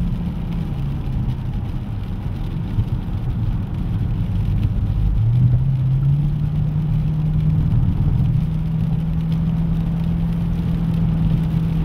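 Chevrolet Camaro SS's 6.2-litre V8 heard from inside the cabin at track speed. The engine note drops about a second in as it eases off, then climbs about five seconds in and holds steady under power.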